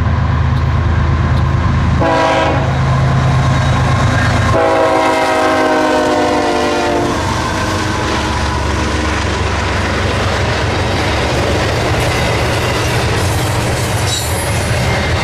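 CSX intermodal freight train passing: diesel locomotive engines rumbling, then the air horn sounds a short blast about two seconds in and a longer blast about four and a half seconds in. After the horn, the steady rumble and rattle of the intermodal cars rolling by.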